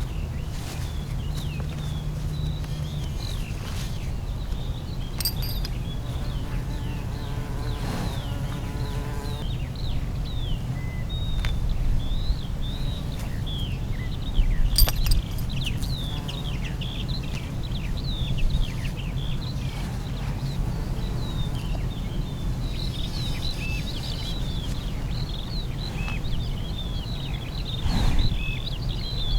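Small birds chirping over and over in short, high calls, over a steady low rumble, with a longer pitched call about eight seconds in and a couple of sharp clicks.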